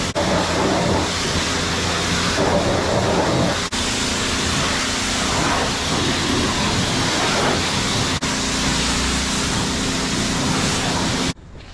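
High-pressure water spraying at a car wash, a loud steady hiss with a motor hum underneath; it breaks off for an instant a few times and stops suddenly near the end.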